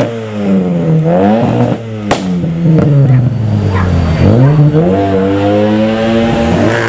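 Modified car's engine revving hard as it pulls away, the revs rising and falling several times as it accelerates through the gears. A sharp crack cuts through about two seconds in, with a smaller one just after.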